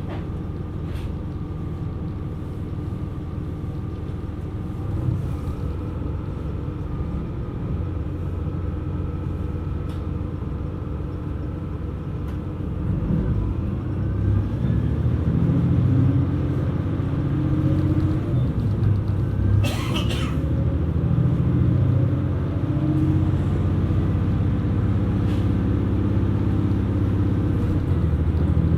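KiHa 127 series diesel railcar running, its engine and running noise steady at first. About halfway through the engine note grows louder and rises in pitch as the engine works harder. A brief sharp noise comes about two-thirds of the way in.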